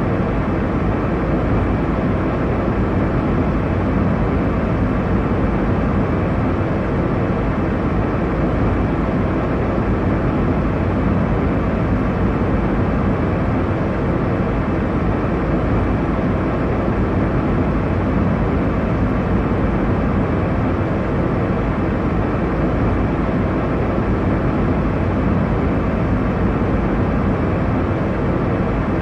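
Airliner cabin noise in flight: a steady, unchanging rush of engine and airflow noise, heaviest in the low range.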